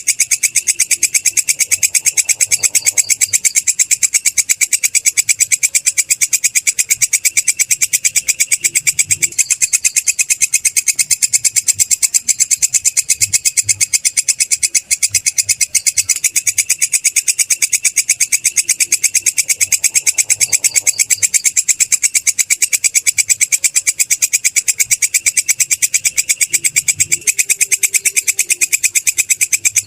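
A belalang kecek, a singing katydid, calling in a continuous high-pitched chirring made of rapid, evenly spaced pulses that keep a steady rhythm throughout.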